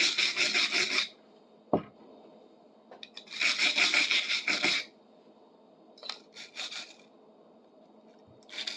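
Rust being scrubbed by hand off a cast-metal shingle puller, in three bursts of rasping strokes: one at the start, a longer one near the middle and a short one a second or so later. A single click falls between the first two bursts.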